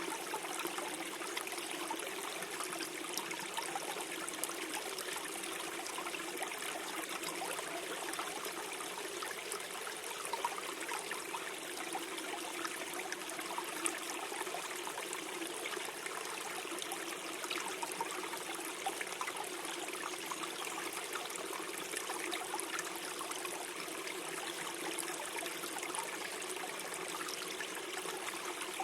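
A small forest stream running and gurgling steadily over stones, with many small trickles and splashes.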